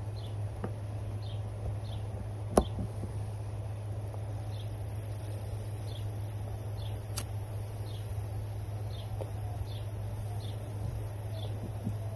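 A short, high chirp repeats about once a second over a steady low hum. Two sharp clicks break through, a loud one near the start and a lighter one about midway.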